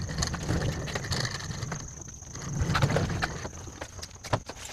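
Low rumbling and shuffling handling noise with scattered knocks, as a work table and lights are shifted about. The sharper knocks come about three seconds in and near the end.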